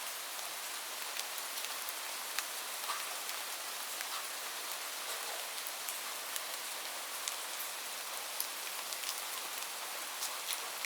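Heavy rain falling steadily on a roof: an even hiss with scattered sharp ticks of individual drops.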